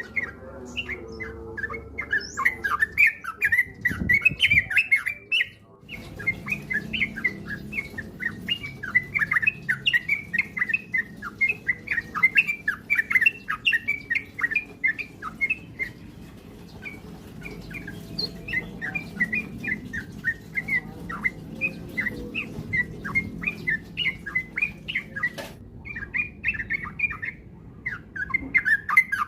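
Yellow-vented bulbul (trucuk) singing a long run of quick chattering phrases, with short breaks about six seconds in and again near the end, over a low steady background hum.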